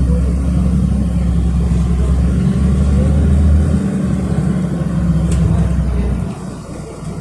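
City bus engine pulling away from a stop and accelerating, a loud low drone heard from inside the passenger cabin, easing off about six seconds in.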